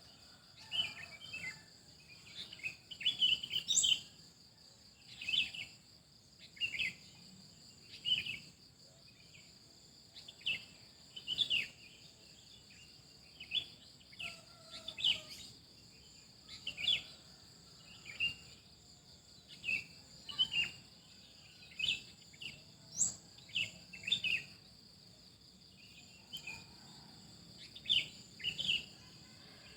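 Songbirds chirping in short, quick phrases every second or two, over a steady, high-pitched trilling of insects.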